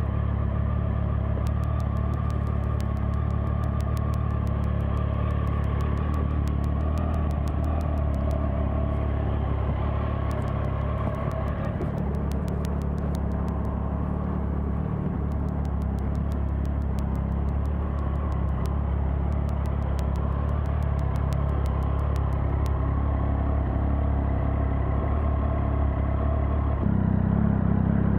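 Triumph Tiger 800 XRT's three-cylinder engine running steadily at low revs, its pitch stepping up near the end as the revs rise.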